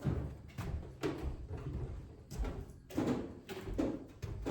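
Irregular knocks and rattles of a microwave's sheet-metal outer case being handled and tugged, which stays fixed in place after its screws are out.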